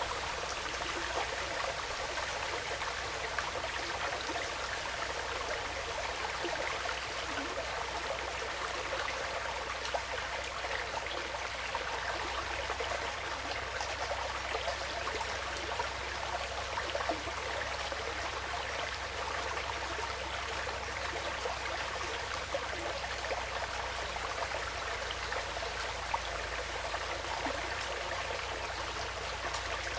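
Woodland stream flowing steadily, an even, continuous babble of running water.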